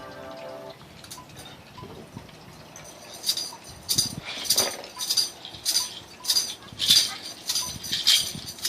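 A held musical tone dies away within the first second. Then, from about three seconds in, a shaker-like rattle keeps a steady beat of just under two strokes a second, an instrumental intro to a song.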